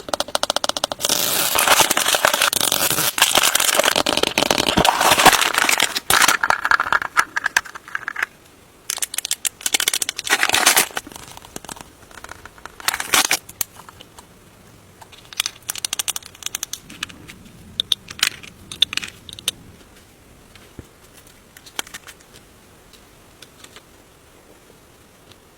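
Plastic toy packaging crinkling and tearing as it is unwrapped. The sound is loud and continuous for about the first eight seconds, then comes in short bursts, and thins to occasional small clicks and rustles in the last few seconds.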